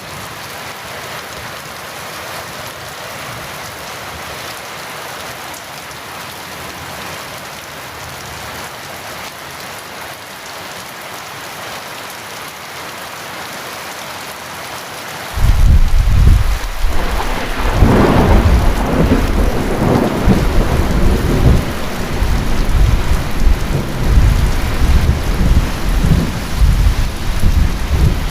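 Steady heavy rain falling. About halfway through, thunder breaks in suddenly with a deep rumble, cracks loudest a few seconds later, and keeps rolling over the rain.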